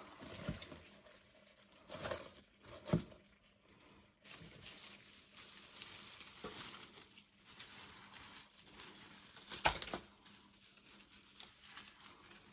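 Kitchen cooking sounds: an uneven crackling hiss with a few sharp knocks and clinks of utensils or cookware, the loudest about three seconds in and near ten seconds.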